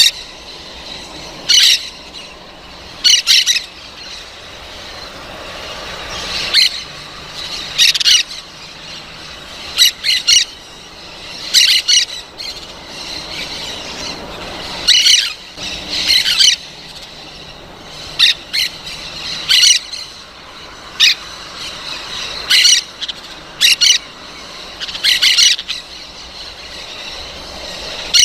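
Parrot squawking: short, harsh, shrill calls repeated irregularly, one every second or two.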